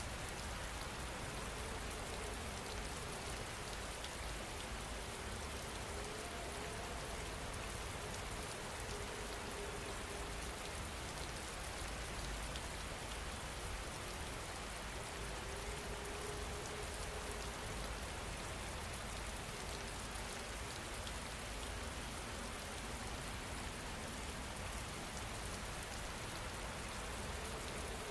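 Steady rain falling: an even hiss that holds level throughout.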